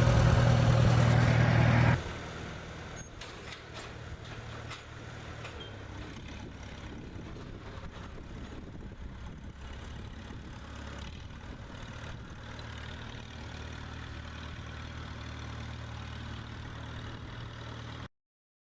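Farmall 200 tractor's four-cylinder gasoline engine running steadily. It is loud at first, drops sharply in level about two seconds in and keeps running more faintly, then stops abruptly near the end.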